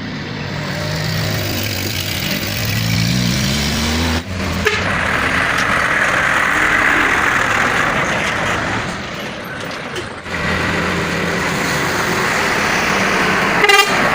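Heavy diesel trucks climbing a hill under load. The engine's pitch rises for about four seconds, then cuts off abruptly, like a gear change, and steady engine and road noise follow. A brief loud burst comes near the end.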